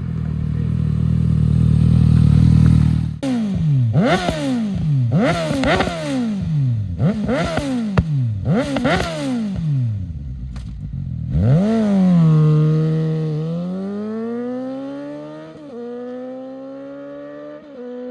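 Suzuki GSX-S750's inline-four engine through a Yoshimura SQ11 exhaust with no dB killer and the catalyst removed, running steadily, then blipped sharply about six times in quick succession, each rev rising and dropping back. Near the end it is revved once more and held, the pitch climbing slowly.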